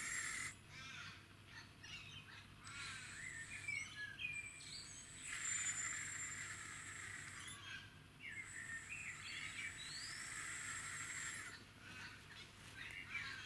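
Birds calling and chirping, over a high thin whine and hiss that switch on and off together in stretches of a few seconds.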